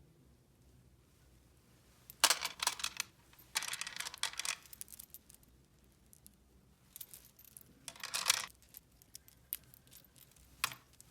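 Small hard objects being handled, clicking, rattling and rustling in four short bursts with pauses between, the last a single click near the end.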